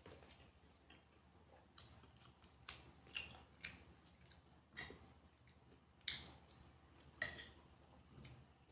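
Close-miked chewing: quiet mouth sounds with scattered soft clicks, and a few sharper, louder ones every second or so.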